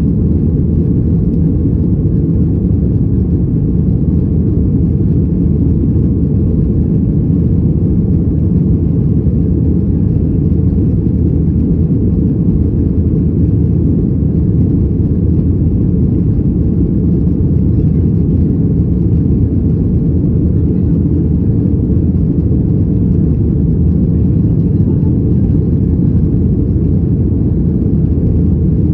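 Boeing 737 engines and airflow heard inside the passenger cabin: a loud, steady low rumble that does not change.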